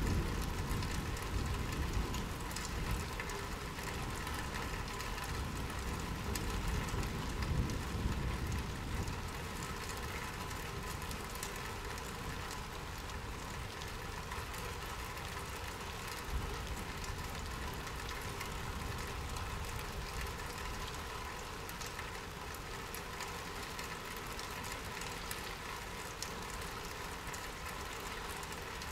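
Steady rain falling, with a low rumble under it during the first several seconds that then eases off.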